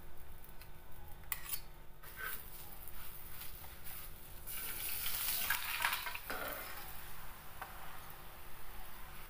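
A paratha frying on a hot tawa, sizzling, the sizzle swelling loudest for a couple of seconds around the middle, with a few clicks of metal tongs against the griddle.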